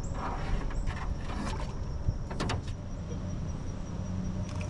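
Wind rumbling on the microphone, with a few sharp clicks about a second and a half and two and a half seconds in.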